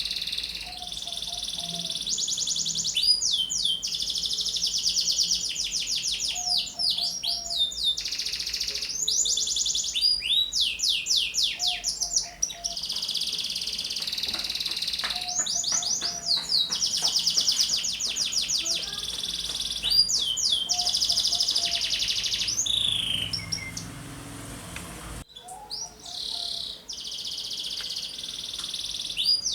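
Domestic canary singing continuously in long, high-pitched phrases of rapid trills and repeated chirps, with short pauses between phrases.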